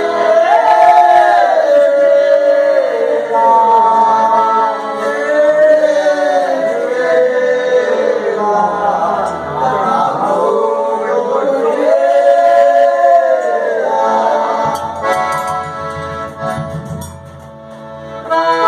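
Folia de Reis singers singing a verse together in several voices, with long drawn-out notes. The voices fade away near the end.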